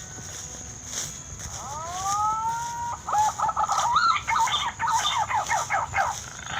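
A bird calling: one long rising, then held note, followed by a rapid run of warbling, up-and-down notes.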